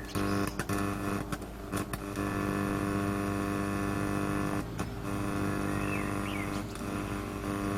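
Steady mains hum from a speaker driven by a Quad 303 power amplifier running on reduced voltage from a variac: a low hum with a buzzy stack of overtones, plus a few short clicks. The hum was not expected, and the amplifier is being checked for a fault in one channel.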